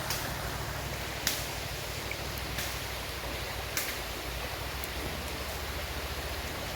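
Steady hiss of a shallow creek running over sand, with four short clicks about a second apart in the first few seconds.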